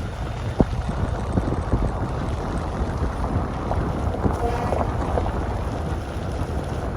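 Wind rumbling on the microphone outdoors, with a few short faint knocks scattered through it.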